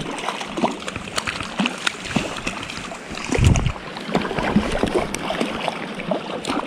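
Creek water running, with many small splashes, and a louder low thump about halfway through.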